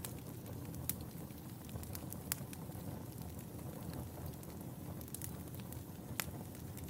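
Wood fire burning in a fireplace: a steady low rumble of flames with scattered sharp crackles and pops, the loudest three at about one, two and a half, and six seconds in.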